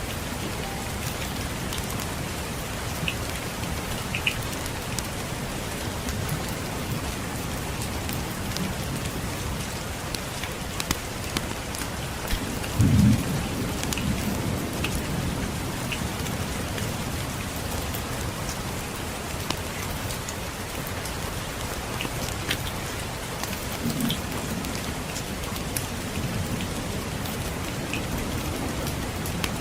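Steady rain with scattered sharp crackles from a wood fire. About halfway through, a low rumble of thunder comes in, the loudest sound, and dies away over a few seconds.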